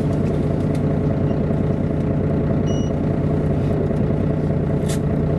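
Diesel engine of an MAN A23 articulated city bus running with a steady, even hum. A short high beep sounds about halfway through, and a sharp click comes near the end.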